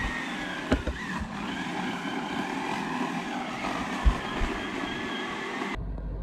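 Suzuki Jimny 4WD driving slowly over a rough forest track, with a few sharp knocks from bumps. Near the end the sound changes suddenly to a low, steady rumble.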